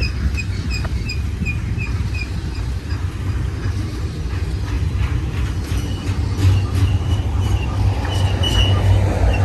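Freight train rolling past: a steady rumble of wheels on rail that builds about halfway through, with high wheel-flange squeals, short and repeated early on and then a held squeal near the end.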